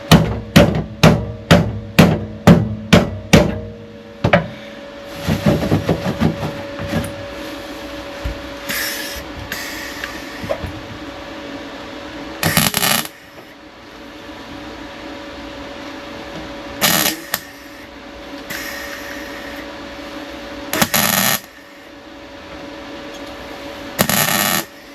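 A hammer strikes steel car bodywork about eight times in quick succession, roughly two to three blows a second, then gives a few softer knocks. Later come four short bursts of harsh, even hiss, several seconds apart, over a steady background hum.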